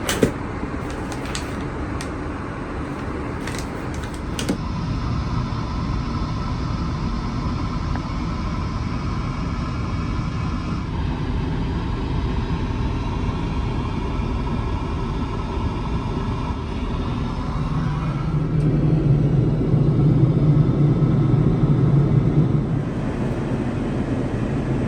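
Airbus A380 engine and airflow noise heard inside the cabin: a steady rumble with held engine tones that shift a few times. It grows louder and deeper for about five seconds starting some 18 seconds in.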